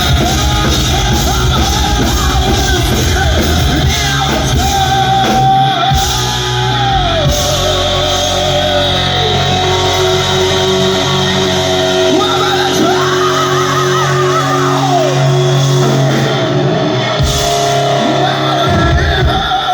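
Hard rock band playing live, with a singer's voice over distorted electric guitar, bass and drums. A sung note is held for a few seconds about two-thirds of the way through.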